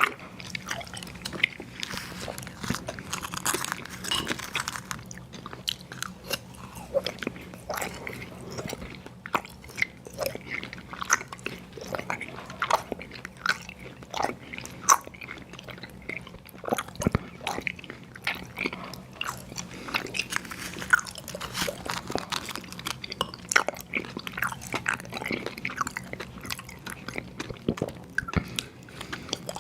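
Close-miked chewing and biting of sour gummy worms cereal: irregular crunchy, sticky mouth clicks, with no pause throughout.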